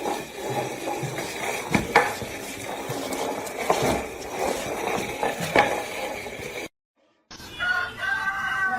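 Clinking and knocking of hard objects, like dishes or utensils, with a handful of sharp knocks. After a brief break near the end, a drawn-out high tone slowly falls in pitch.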